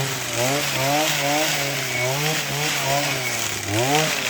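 Small two-stroke engine of a handheld coffee harvester (derriçadeira) running as it shakes coffee branches. Its pitch wavers a few times a second and dips briefly near the end.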